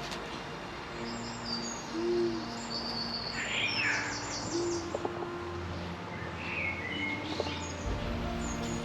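Birds calling: short, low, hoot-like calls repeating every few seconds, with higher chirps and brief trills from other birds in between.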